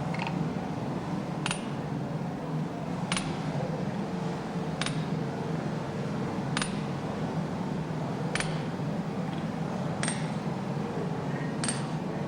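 Seven evenly paced hammer blows, about one every 1.7 seconds, each a sharp strike with a short metallic ring: wedges being driven in to lock the new hammer stock in its bed. A steady low hum runs underneath.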